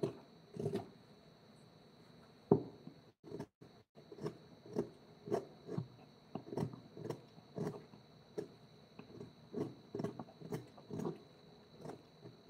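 Hand tool working wood in short scraping strokes, about two a second, with one sharper click about two and a half seconds in. A faint steady high whine runs underneath.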